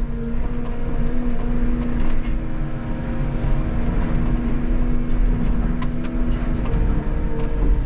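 Wheel loader's diesel engine running steadily as the machine is put in gear and moves off, a deep rumble with a few steady tones and light clicks over it.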